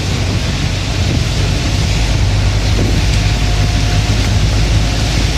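Steady rain falling, an even hiss over a continuous low rumble.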